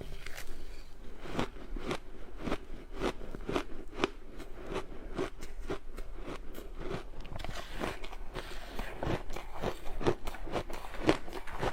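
Ice being bitten and chewed close to the microphone: a steady run of crisp crunches, about two a second.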